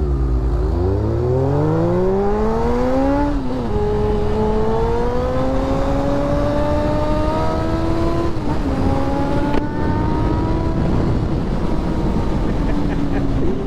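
Vehicle engine accelerating hard. It revs up, upshifts about three seconds in, pulls up through the next gear, upshifts again around eight seconds in, then holds steady.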